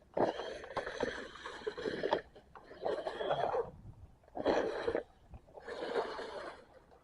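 RC car driving in four bursts of throttle, its motor and tyres on the trail surface making a rough rushing noise that starts and stops with each burst.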